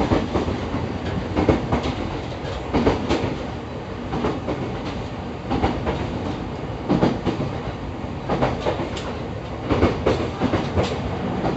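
EV-E301 series battery electric train running on battery power, heard from inside the car: a steady rumble with clusters of wheel clacks over rail joints recurring roughly every second and a half.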